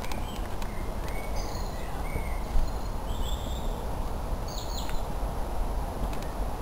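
Wild birds chirping in short high calls, several in the middle stretch, over a steady low rumble of handling noise from a camera being carried on foot.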